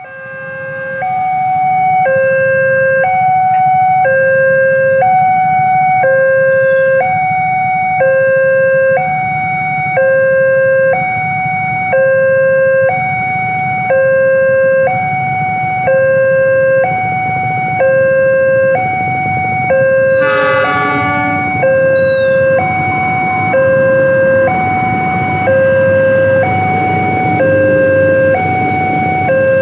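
Two-tone electronic warning alarm switching between a low and a high tone about once a second, steadily and loudly, over a steady low hiss. A short, many-toned squeal cuts in briefly about two-thirds of the way through.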